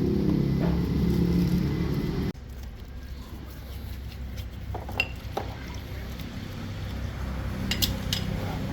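Light metallic clinks of tools and parts being handled over a steady low hum. The hum drops away abruptly about two seconds in, leaving a quieter background with a few scattered clinks.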